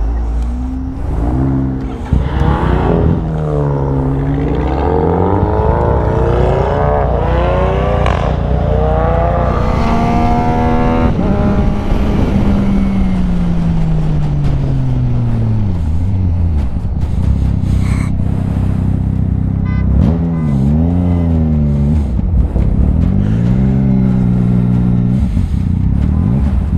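A motorcycle engine accelerating hard through several gears. Its pitch climbs and drops back at each shift, then falls in one long slide as the bike slows. Near the end come a couple of shorter dips and rises in revs, over steady low wind and road rumble.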